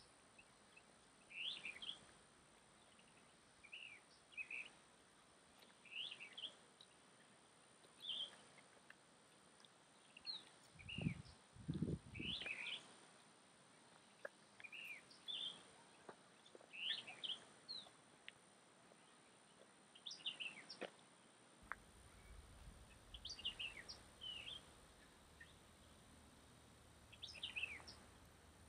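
A bird calling, short chirping phrases repeated about every two seconds over a quiet outdoor background. Two low thuds come near the middle.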